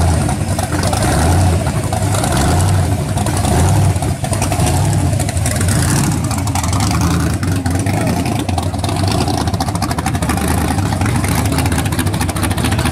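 Supercharged 440 cubic-inch Chrysler big-block V8 in a 1971 Dodge Demon pro street car, running at low speed as the car creeps past, with a loud low rumble that pulses unevenly.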